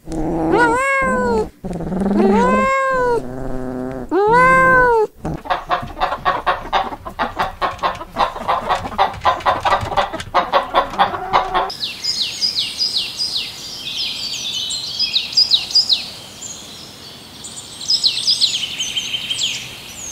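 Tabby kittens meowing, several high, arching cries in the first five seconds. Then chickens clucking, a rapid, even string of clucks. Then, from about two-thirds of the way in, high, short, falling bird chirps.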